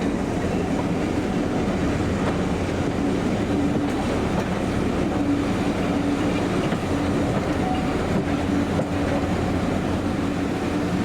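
A diesel locomotive running, with a steady low engine hum and a humming tone that comes and goes.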